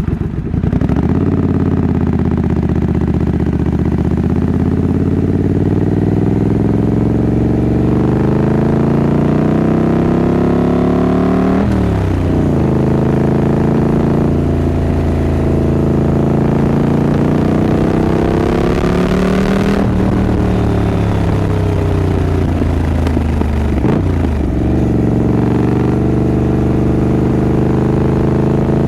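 Triumph Scrambler 900's 900 cc parallel-twin engine pulling the bike along. The revs climb steadily and drop sharply at gear changes several times, and at one point the revs sink for a few seconds as the bike slows.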